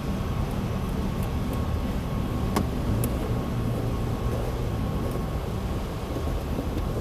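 Steady low rumble of vehicle noise, with a couple of faint sharp clicks about two and a half and three seconds in as a wheel-arch liner bolt is driven in with a Torx T20.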